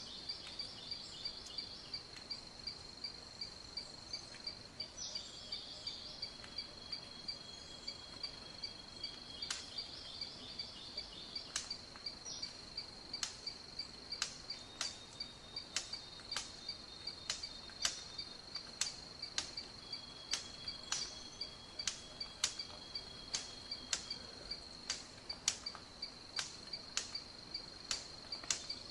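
Tropical forest insect chorus: a steady, high-pitched pulsing drone, with sharp clicks at irregular intervals that come more often after the middle.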